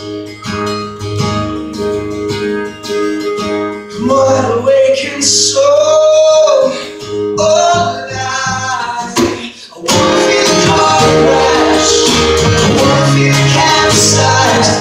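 Live acoustic guitar strumming. About four seconds in, a man starts singing over it. About ten seconds in, the sound turns suddenly louder and fuller.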